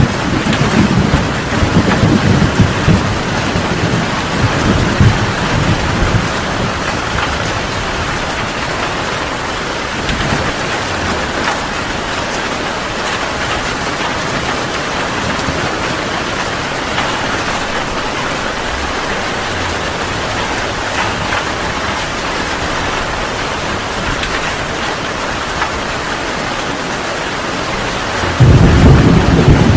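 Heavy rain pouring steadily, with rolling thunder rumbling through the first few seconds and fading away. Near the end a new peal of thunder breaks in suddenly.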